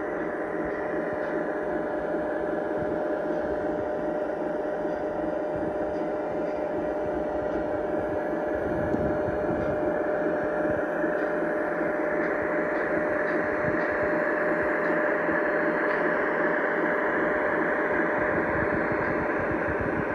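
Onboard sound system of a Lionel Legacy O-scale model of a GE ES44AC diesel, playing the diesel prime mover running steadily through the model's small speaker. It grows somewhat louder and brighter in the second half.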